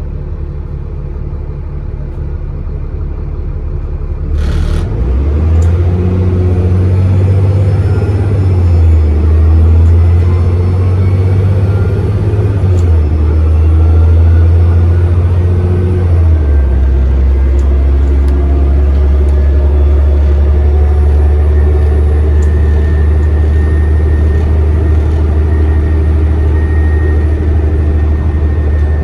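Onboard a double-decker bus: the diesel engine pulls away and accelerates, its note stepping at gear changes about 8, 13 and 16 seconds in, with a faint high turbocharger whistle over it. A short sharp burst of noise comes about four and a half seconds in.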